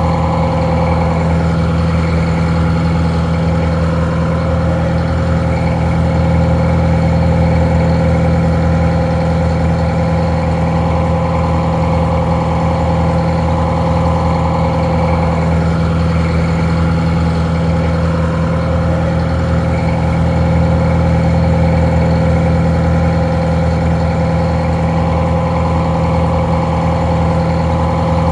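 Detroit Diesel 4-71 two-stroke diesel engine idling steadily, a little muffled.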